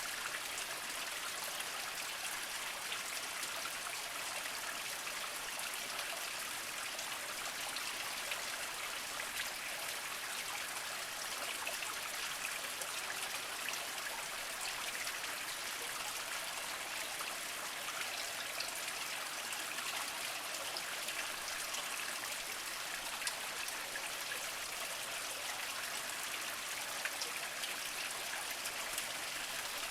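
A small mountain spring trickling over mossy rocks: a steady light splashing and dripping of water with many fine droplet ticks, no single event standing out.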